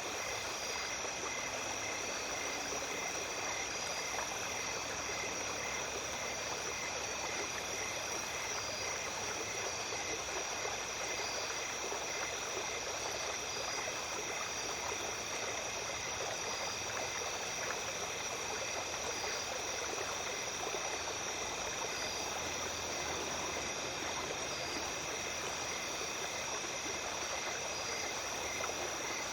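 A small stream flowing steadily at night, with a chorus of insects trilling over it: a steady high-pitched tone and several lower chirping calls that pulse evenly.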